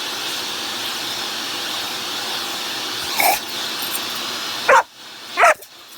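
Vacuum cleaner running steadily while a puppy barks at it, once about halfway through and twice more near the end, just after the vacuum's noise cuts out.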